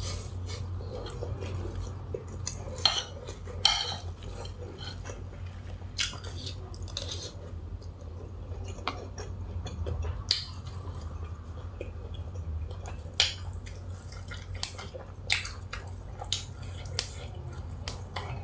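A person eating grilled beef salad: close chewing and biting, with irregular sharp clicks of cutlery against a plate, over a low steady hum.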